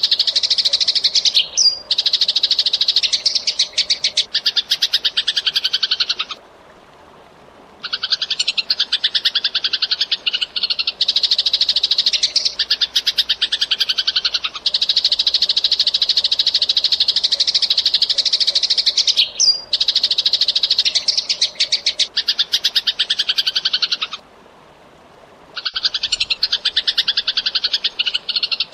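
Eurasian tree sparrow (burung gereja) chirping in fast, dense runs, many chirps a second. It breaks off twice for about a second and a half.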